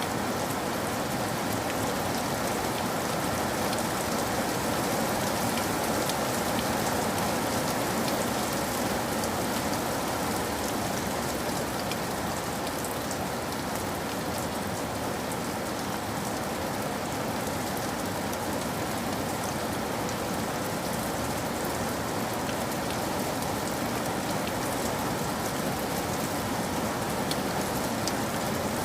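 Steady rain falling, an even hiss with scattered small sharp taps of drops.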